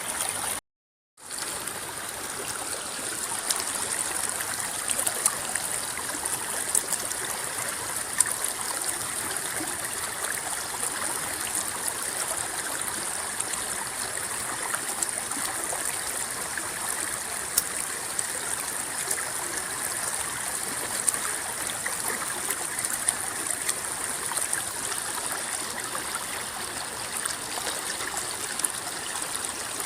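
A river rippling and babbling over rocks in a steady rush, with many small splashes and droplet ticks. The sound cuts out completely for about half a second about a second in, then resumes.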